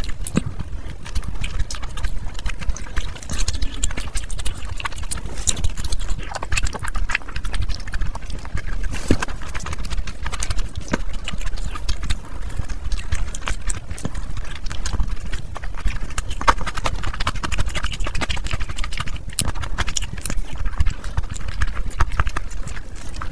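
Close-miked chewing and lip smacking as mouthfuls of curry-soaked meat and rice are eaten by hand: a continuous run of wet clicks and squelches.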